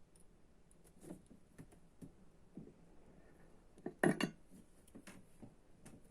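Small clicks and clinks of tools and parts being handled on a work surface, with a louder brief clatter about four seconds in.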